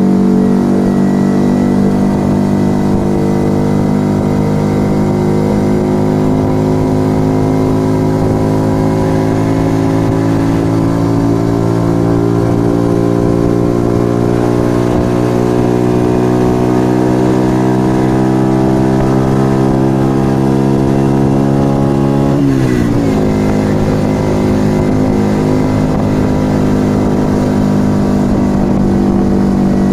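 Yamaha XV125 Virago's small V-twin engine running through a Turbo Kit aftermarket exhaust under way. Its pitch climbs slowly and steadily for most of the stretch, drops suddenly about three-quarters of the way through, then holds steady.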